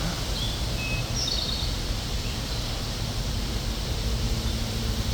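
Steady low outdoor noise with a few short, faint bird chirps in the first second and a half.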